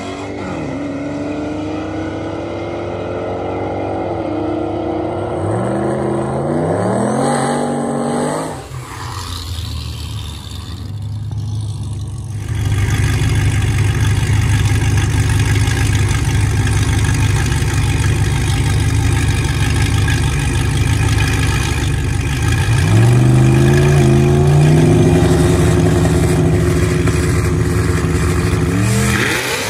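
Car engines at full throttle on a drag strip, pitch climbing and dropping back through several gear shifts. Partway through it gets louder and stays loud, and near the end more rising shifts follow.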